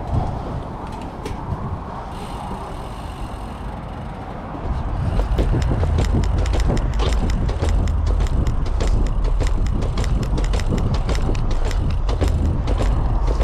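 Bicycle riding on gravel: tyres crunching and crackling over loose stones, with wind rumbling on the microphone. About five seconds in it gets louder and rougher, with a dense run of small crackles over a heavier rumble.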